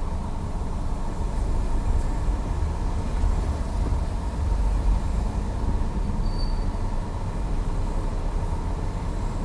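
Seat Ateca running with a steady low rumble and a faint steady whine, while the steering is turned to show the noise it makes. A brief high-pitched squeak comes about six seconds in.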